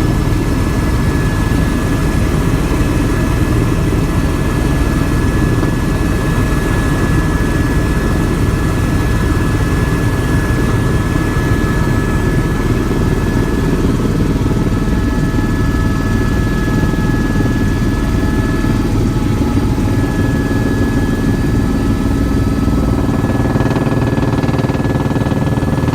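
Helicopter running in flight, heard from on board as a loud, even drone of engine and rotor with a thin steady whine above it.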